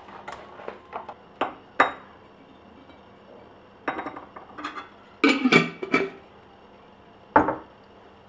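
Dishes and kitchenware being handled and set down, in a series of clinks and knocks with short ringing. The loudest is a clattering run of strikes a little past halfway, and a last single knock comes near the end.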